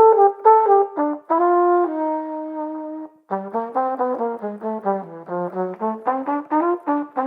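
Trumpet played solo, its tone colour shaped only by the player's lips, mouth and tongue, with no change of instrument or mouthpiece. A few long held notes give way, after a short break about three seconds in, to a quick run of short, detached notes in a lower register, about five a second.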